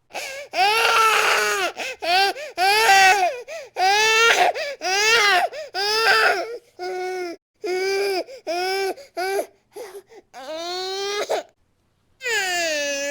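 Baby crying hard in a rapid run of short, arching wails with quick breaths between them, then a pause of about a second near the end before a long wail starts.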